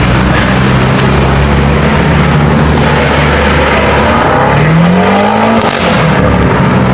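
A car engine running loud and steady, revving up once about four and a half seconds in and dropping back after about a second.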